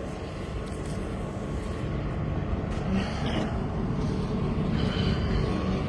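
A train rumbling past, a steady low rumble that grows slowly louder.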